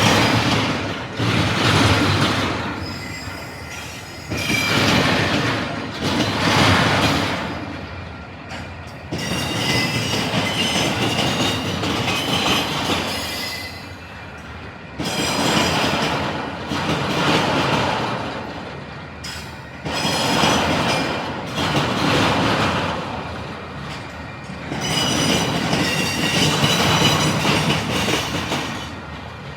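Intermodal freight cars rolling across a railroad diamond crossing: the wheels bang over the crossing in loud surges every couple of seconds, with high steel wheel squeal ringing over the rumble.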